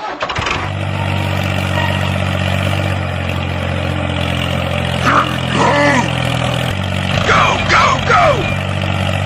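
A motor running with a steady low hum that shifts slightly near the end, while voices call out briefly twice in the middle.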